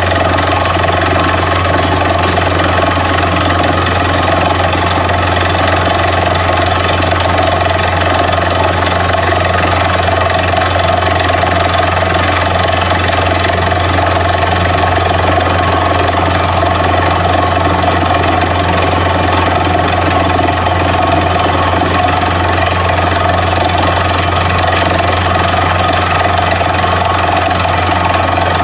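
Borewell drilling rig's engine running steadily: a loud, constant drone with a strong low hum that does not change.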